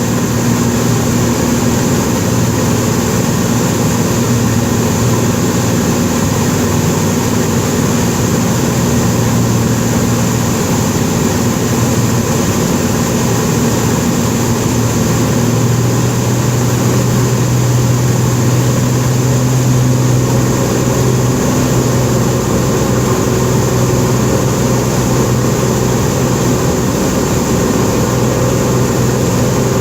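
Cessna 207's single six-cylinder piston engine and propeller droning steadily and loudly, with the low engine tone shifting only slightly.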